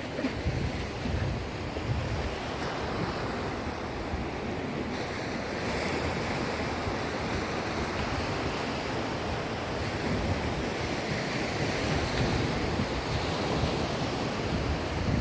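Sea waves washing steadily, with wind buffeting the microphone in low gusts.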